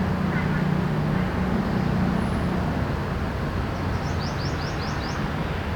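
Steady city traffic hum with a vehicle engine droning low, fading after about two and a half seconds. Near the end a bird gives a quick run of about six short high chirps.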